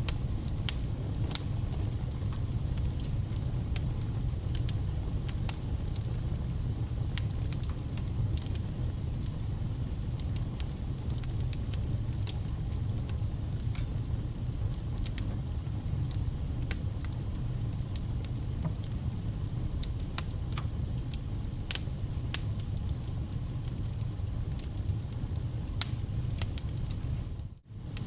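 Wood fire burning, crackling and popping with frequent sharp snaps over a steady low rumble. The sound cuts out for a moment near the end.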